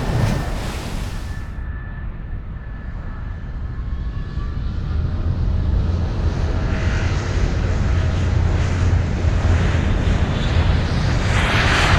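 Helicopter's rotor and engine running, a steady low rumble that grows louder over the first several seconds, with a rush of noise near the end.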